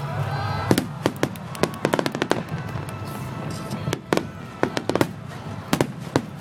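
Fireworks going off in a display: rapid clusters of sharp bangs and crackling reports, with brief lulls between the volleys.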